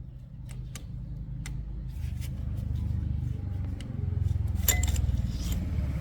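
2004 SYM motorcycle's small single-cylinder engine running, getting louder from about two seconds in, with light metallic clinks and taps over it.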